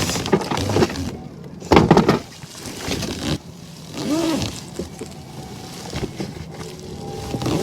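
Irregular rustling and bumping of gear being handled aboard a kayak, loudest a little under two seconds in, with a short rising-then-falling tone about four seconds in.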